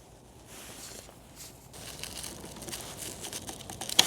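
Faint rustling and handling noises, with a sharp click near the end.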